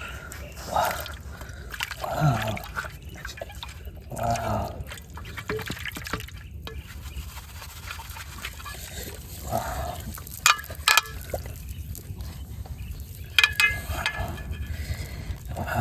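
Water sloshing and trickling, with a few sharp slaps or clicks about ten to fourteen seconds in.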